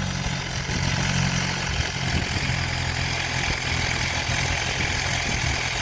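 MV Agusta Brutale 1000RR's inline-four engine idling steadily.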